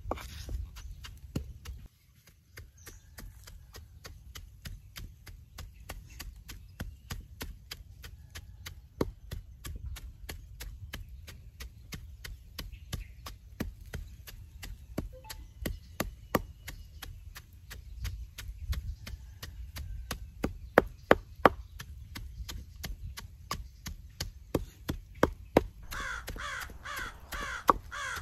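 Wooden pestle pounding in a mortar, a steady run of dull knocks about three a second, crushing salt, garlic, shallots and chilli into a seasoning paste. Near the end a bird calls several times.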